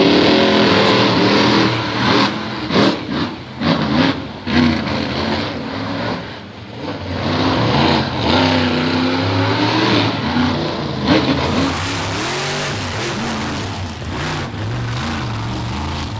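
Two monster truck engines revving hard in a side-by-side race, their pitch rising and falling with the throttle, choppy throttle blips in the first few seconds.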